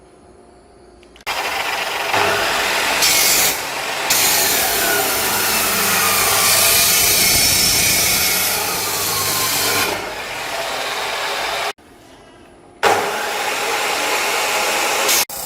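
A loud machine running, starting abruptly about a second in, with a slow dip and rise in pitch in the middle; it cuts off suddenly near twelve seconds in and starts again about a second later.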